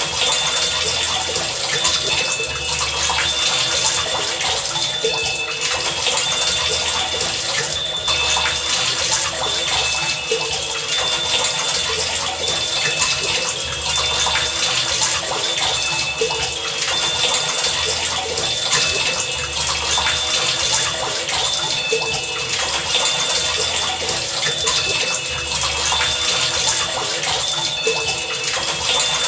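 Heavy rain falling in a steady, dense hiss. Short high tones and a low pulse recur about every two seconds through it, in an even rhythm.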